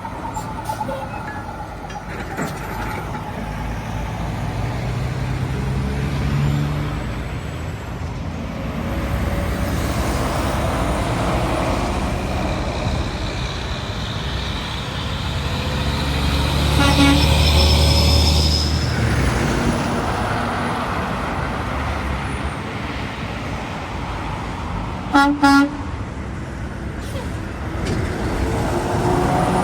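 Road traffic passing, trucks and cars, with a heavy vehicle's low rumble swelling up and fading a little past the middle. Late on, a vehicle horn gives two short toots.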